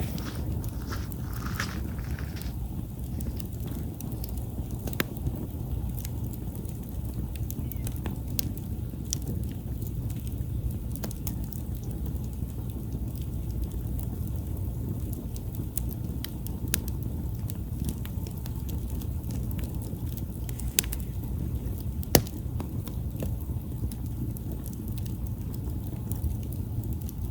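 Campfire burning: a steady low rumble with scattered crackles and sharp pops of burning wood, the loudest pops about 21 and 22 seconds in.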